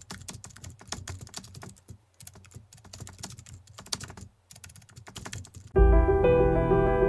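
Typing on a computer keyboard: rapid, irregular key clicks in runs with short pauses. Near the end, music with sustained keyboard chords starts abruptly and much louder.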